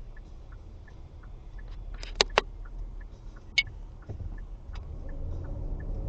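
Vehicle running in traffic, heard from inside, with a faint steady ticking about three times a second. There are two sharp clicks close together about two seconds in and another about a second later. The low engine rumble grows louder near the end as the vehicle pulls away.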